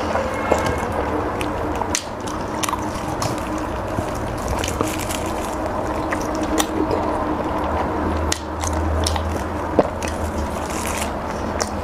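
A person chewing soft, wet food with many small, irregular mouth clicks and smacks, over a steady low hum.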